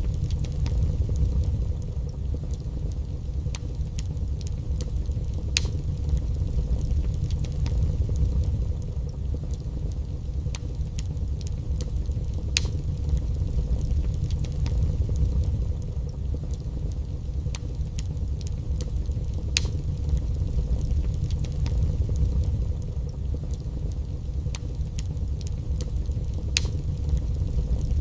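Wood fire burning in a fireplace: a steady low rumble with sharp crackles and pops every few seconds.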